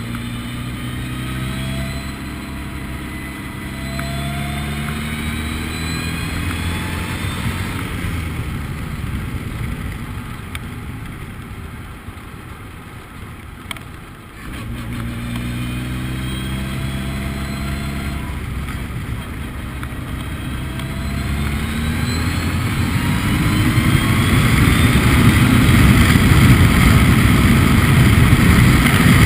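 Formula Ford race car engine accelerating hard through the gears: its pitch climbs and drops back at each upshift. It eases off for several seconds in the middle, then pulls up through the gears again and grows louder near the end.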